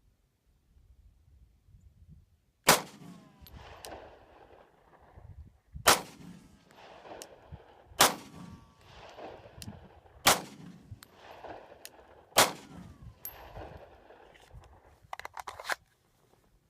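Five slow-fire shots from a Glock 19 Gen4 9mm pistol, roughly two seconds apart, each trailing off in a ringing echo. A few quick, lighter clicks follow near the end.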